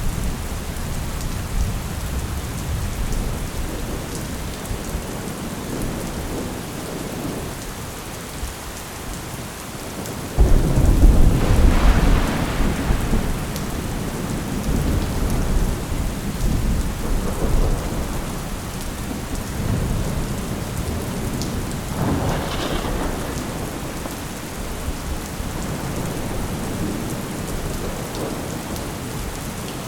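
Thunderstorm: steady rain with rolling thunder. A loud clap breaks in about ten seconds in and rumbles away over a few seconds, and a weaker rumble comes about twenty-two seconds in.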